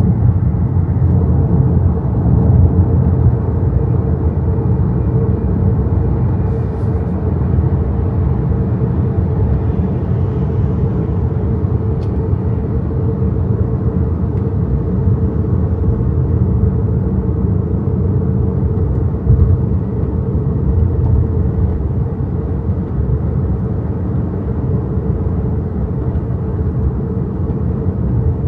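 Steady tyre and road rumble of an XPENG G6 electric SUV driving along, heard from inside the cabin, with no engine note since the car is electric.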